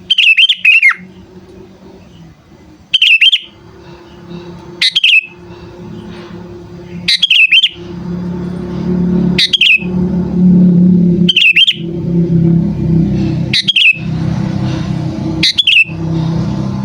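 Sooty-headed bulbul (kutilang) calling: eight short, loud calls, about one every two seconds. A low steady hum runs underneath and grows louder about halfway through.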